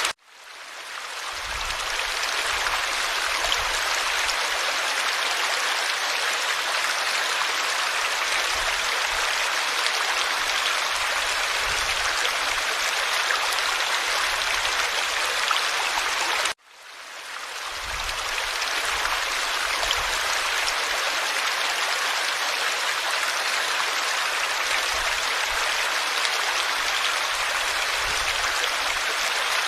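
Forest stream flowing: a steady rush of babbling water. The sound cuts out abruptly right at the start and again about 16 to 17 seconds in, each time fading back up over a second or so.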